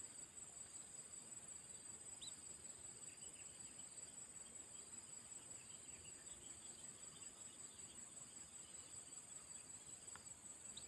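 Faint, steady high-pitched insect chorus, with a few soft short chirps, one about two seconds in and another near the end.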